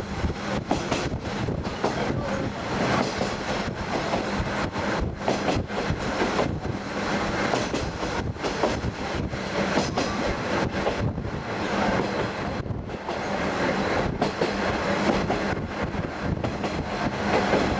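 KiHa 48 diesel railcar under way, heard from on board: steady wheel and rail noise with frequent clicks of the wheels over the track, over a steady low hum.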